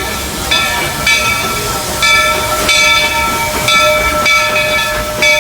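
Steam locomotive's bell ringing steadily at about two strokes a second, over the hiss of steam, as the train stands at the station.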